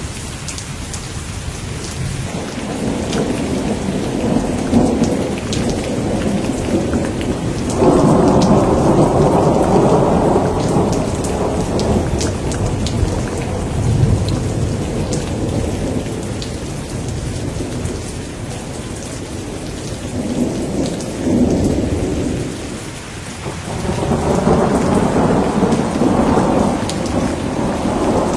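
Steady rain with rolling thunder. A loud rumble of thunder starts suddenly about eight seconds in and rolls on for several seconds, and further rumbles come near the end.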